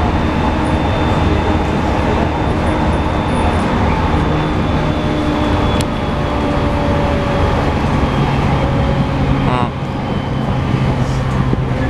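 E217 series electric train heard from inside the car while running: a steady rumble of wheels on rail, with the whine of the traction motors and Mitsubishi IGBT-VVVF inverter as several held tones slowly sinking in pitch. The level dips briefly near the end.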